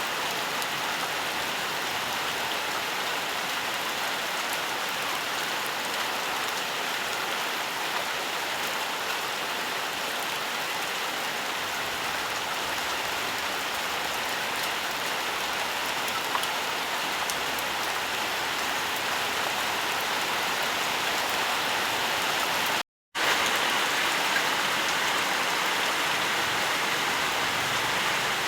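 Steady rainfall: an even hiss of rain with faint scattered drop ticks. About three-quarters of the way through it cuts out for an instant, then comes back slightly louder.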